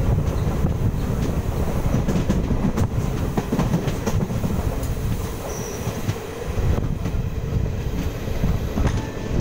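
Indian Railways passenger train running at speed, heard from the side of a coach: a steady rumble of wheels on track with scattered clicks and clatter from the rails.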